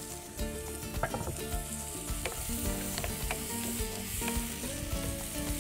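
Food frying in hot oil in a nonstick wok with a steady sizzle, stirred with a wooden spoon that knocks and scrapes against the pan now and then.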